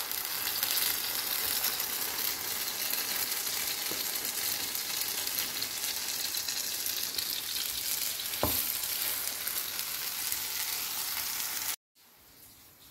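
Egg-soaked bread slice sizzling in hot oil on a flat iron griddle: a steady frying hiss, with one light tap about eight seconds in. The sizzle cuts off abruptly near the end.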